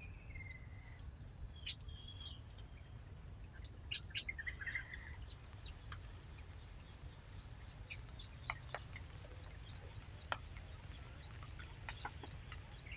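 Birds chirping outdoors, a few short high calls in the first five seconds, over scattered sharp clicks and a steady low rumble.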